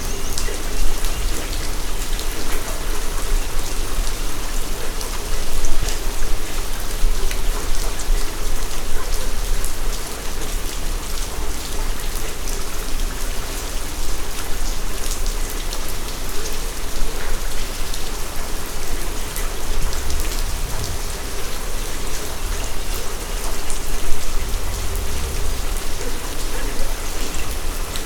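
Heavy rain falling steadily, a dense even hiss dotted with many sharp individual drop hits. Brief low rumbles come twice in the second half.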